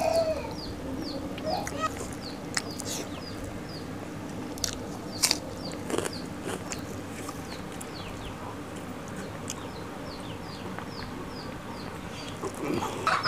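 A small bird peeping over and over, short falling notes a few times a second, with a few sharp clicks and knocks of eating from a steel plate.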